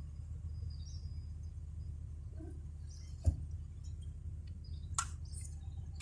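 Birds chirping over a steady low rumble, with two sharp clicks, one a little over three seconds in and one about five seconds in.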